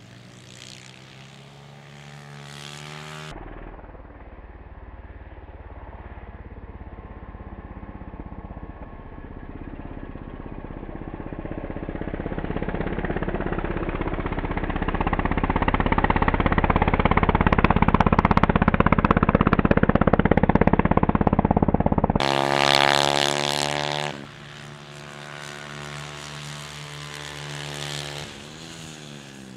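Small single-cylinder pitbike engines revving, with pitch rising and falling as the riders work the throttle and gears. A long stretch in the middle swells steadily louder and peaks about three-quarters of the way through, then drops off abruptly.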